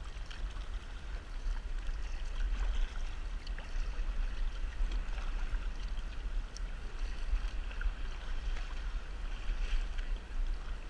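Water splashing and lapping around a kayak on the ocean, with small irregular splashes over a steady low rumble.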